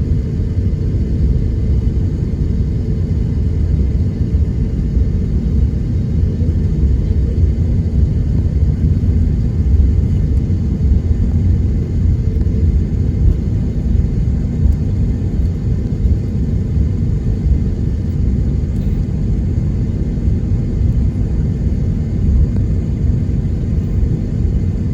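Steady low rumble in the cabin of an Airbus A321neo taxiing on the ground, with its engines at idle and the aircraft rolling along the taxiway.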